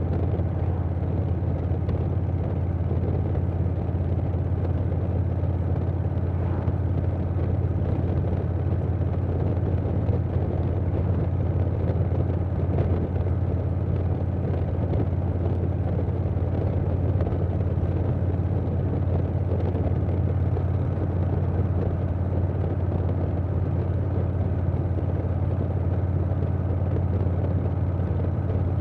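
2020 Harley-Davidson Softail Standard's Milwaukee-Eight 107 V-twin running at a steady cruise through a Vance & Hines Big Radius 2-2 exhaust, with wind rushing past.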